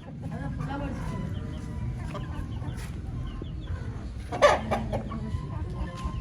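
Rooster clucking, with one louder, short call about four and a half seconds in, over a low steady rumble.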